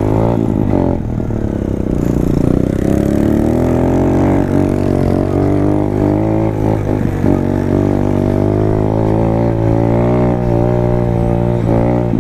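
Small single-cylinder pit bike engine running under way. Its pitch dips and climbs with the throttle in the first second or so, then holds fairly steady with small rises and falls.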